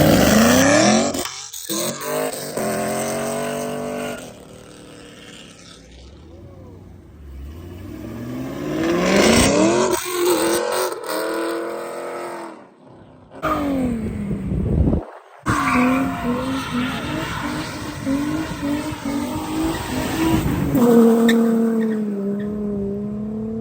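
Modified cars with loud exhaust accelerating hard, engine pitch climbing and falling several times as they rev and pull away. Near the end one engine holds a steadier drone.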